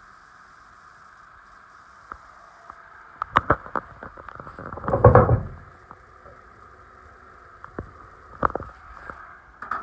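2017 Toyota RAV4 engine running steadily, with scattered clicks and knocks and one loud rush of noise lasting about a second, about five seconds in.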